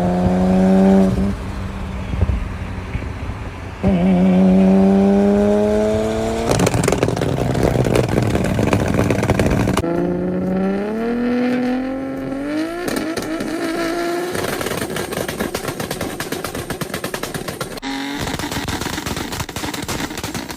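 Turbocharged cars on anti-lag, the engine pitch rising in repeated hard pulls, with rapid crackling pops and bangs from the exhaust between and after the pulls.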